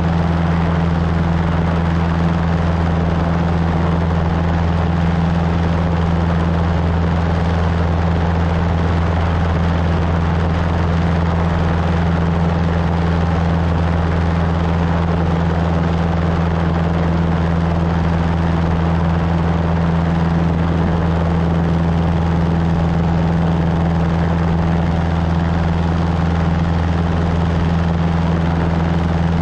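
Cessna 150's four-cylinder Continental O-200 engine and propeller droning steadily in flight, with no change in pitch or power.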